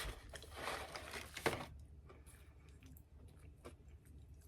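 Dry, crunchy chocolate keto cereal squares being chewed, with loud crunching for about the first second and a half, then quieter chewing with a few small clicks.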